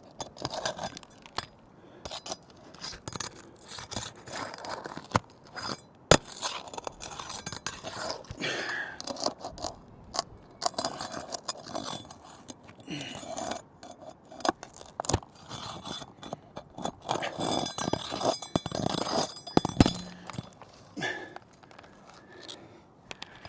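Roofing nails being pried out of asphalt architectural shingles with a metal tool: irregular scraping and crunching of the shingles being lifted, with sharp metallic clinks and knocks, the loudest about six seconds in and again near twenty seconds.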